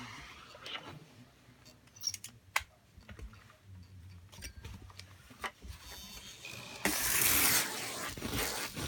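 A vacuum's rushing airflow fades out at the start. Then come scattered sharp clicks and knocks of hard debris and handling. About seven seconds in, a loud rushing noise of suction starts up again.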